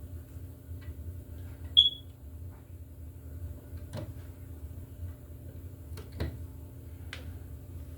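Hand wire strippers taking the insulation off 12-gauge copper wire: a few sharp clicks and one short, high squeak about two seconds in, over a steady low hum.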